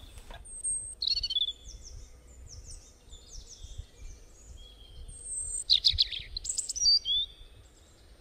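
Several birds chirping and calling in short, high notes and quick downward-sweeping calls, with a burst of rapid calls a little over halfway through. A faint low rumble runs underneath.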